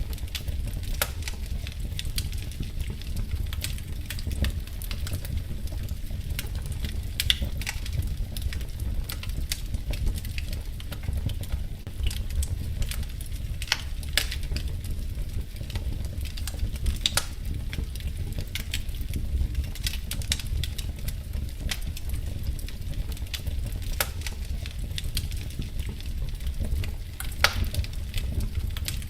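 Fireplace wood fire crackling, with frequent sharp pops and snaps over a steady low rumble of flames.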